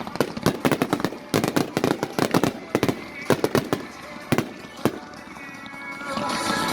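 Fireworks going off in a rapid string of sharp bangs and crackles that thin out after about five seconds. Music comes in near the end.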